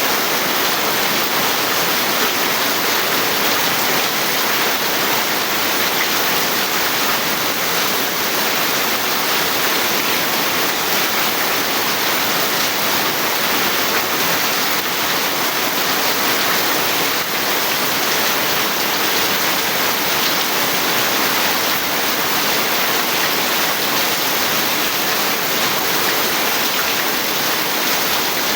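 Steady heavy rain falling, a dense, even hiss of drops.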